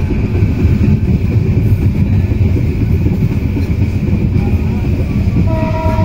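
Passenger train running at speed, heard from inside a carriage: a steady heavy rumble of the wheels on the track. Near the end a faint, steady horn tone comes in.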